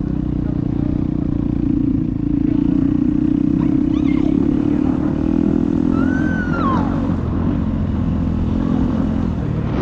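Dirt bike engine running steadily at low, even speed.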